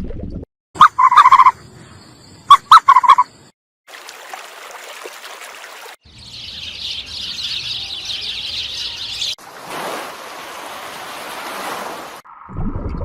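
Loud, short calls of domestic fowl: one burst about a second in and a quick run of several more near three seconds in. They are followed by separate clips of steady high chirping and then an even rushing noise.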